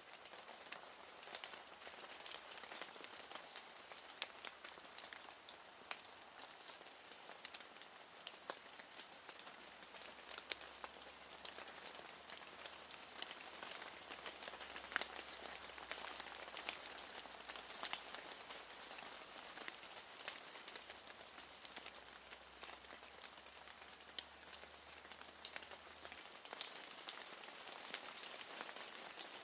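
Steady rain falling, a soft even hiss dotted with many small drop taps.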